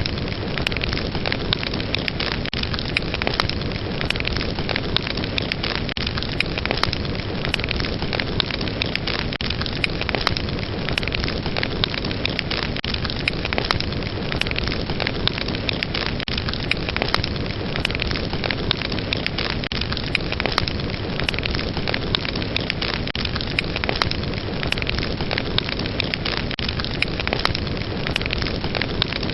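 Fire burning steadily, a dense crackle of many small sharp pops over a constant rushing hiss.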